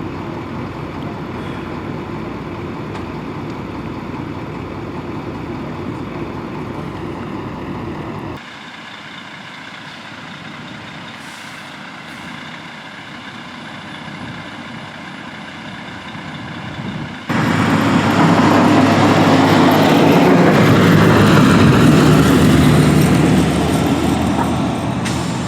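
Interstate traffic with heavy trucks, heard in three separate shots that change abruptly about 8 and 17 seconds in; the last is the loudest, a vehicle passing close with a broad rush of tyre and engine noise.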